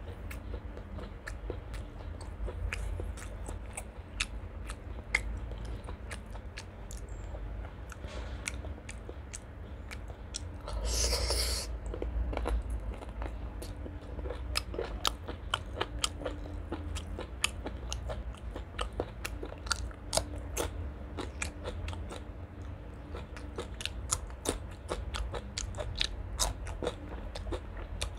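Close-miked chewing and biting: a person eating curry, rice and raw green stalks by hand, with frequent crisp mouth clicks and crunches. A louder noisy burst comes about eleven seconds in.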